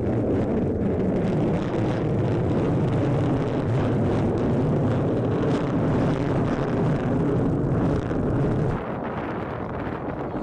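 Lockheed Martin F-35A Lightning II fighter jet's Pratt & Whitney F135 afterburning turbofan roaring past, a steady deep roar that drops in level near the end.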